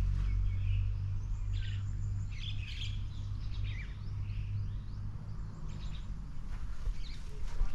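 Birds chirping in short, scattered calls, busiest in the first few seconds, over a steady low rumble.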